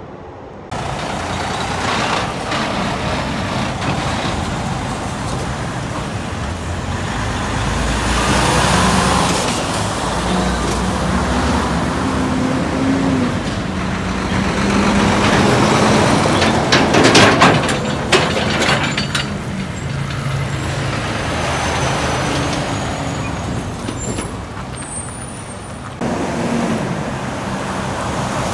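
Semi-truck's diesel engine running as the truck pulls away, its pitch rising as it revs between about 8 and 13 seconds in. A brief burst of clanking about 17 seconds in is the loudest moment.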